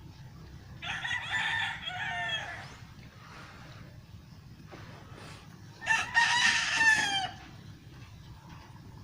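A rooster crowing twice, each crow a drawn-out call that falls away at the end, a few seconds apart.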